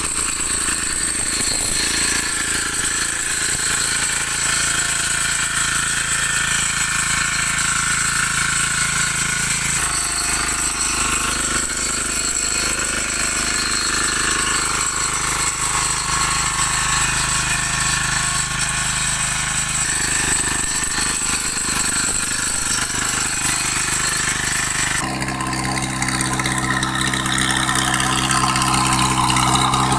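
Diesel engines of walking tractors (power tillers) running steadily. The engine note changes abruptly about a third of the way in, two-thirds of the way in and near the end, as one clip cuts to the next.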